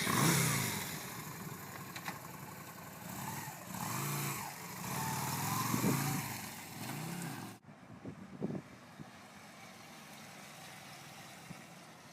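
Yamaha V Star 250's air-cooled V-twin engine revving up and easing off several times under way, with wind hiss on the microphone. The engine sound cuts off suddenly about seven and a half seconds in, leaving a quieter steady hiss and a few short knocks.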